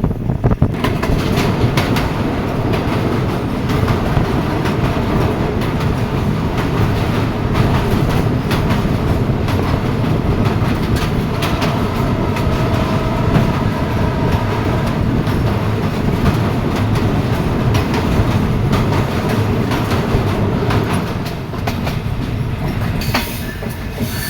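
Train running along the track: a steady rumble with the repeated clicking of wheels passing over rail joints.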